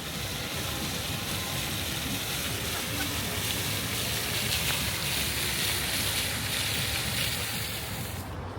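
A steady rushing, hissing noise, mostly high-pitched, that starts and cuts off abruptly.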